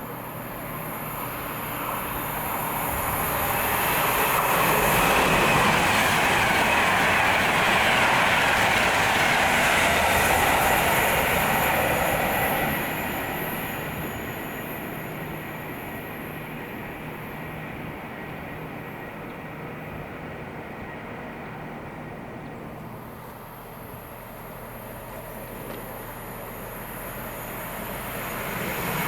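A train passing on the rails, growing louder over the first few seconds, loudest for about eight seconds, then easing to a lower steady rumble before rising again near the end.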